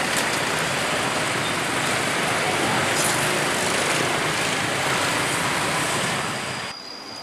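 Passenger train running along the track: a steady rumble and rush of wheels on rails, which cuts off sharply about a second before the end.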